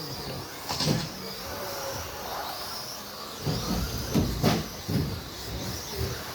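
Electric RC stadium trucks with 13.5-turn motors racing on a carpet track: a high motor whine that rises and falls with the throttle, with a few knocks about a second in and again between three and five seconds in.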